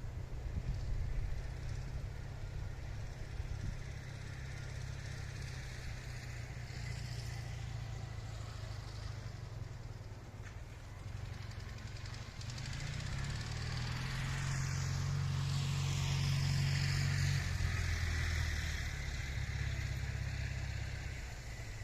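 Ural motorcycle's flat-twin engine running, building up and getting louder about halfway through before easing off again near the end. The owner reports a piston knocking against the cylinder head after a seizure.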